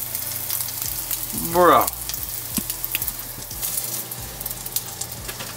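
Crab cakes frying in hot oil in a pan, a steady sizzle with fine crackling.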